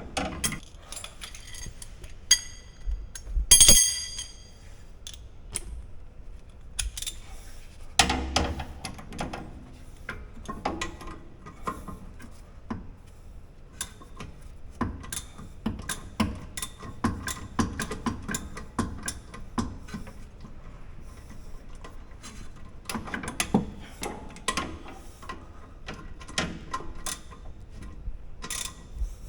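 Hand tools working on a car's rear disc brake caliper: ratchet clicks and metal-on-metal clinks and knocks, with one loud ringing metal clink about three and a half seconds in.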